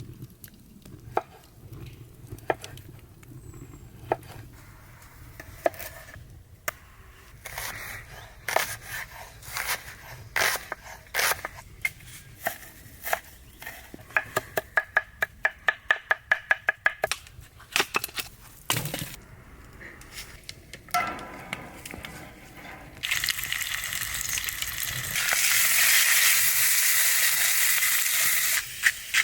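Campfire cooking sounds: scattered knocks and clicks of utensils against a pan, with a quick, even run of taps midway, then food sizzling as it fries from about two-thirds of the way in, getting louder near the end.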